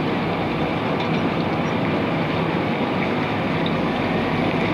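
Machinery running steadily, a dense mechanical noise with a low hum underneath, of the kind made by winery crush equipment.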